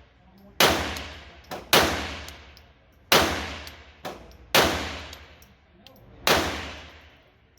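Gunshots in an indoor range: about five sharp shots at irregular intervals of one to a second and a half, each followed by a long ringing echo off the range walls.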